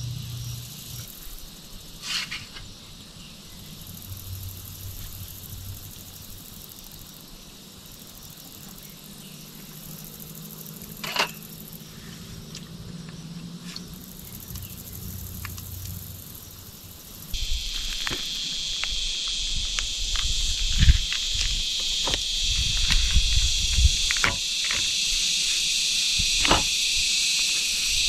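A faint low hum with a couple of isolated clicks, then an abrupt switch about two-thirds through to a loud, steady chorus of crickets, with scattered knocks and thumps over it.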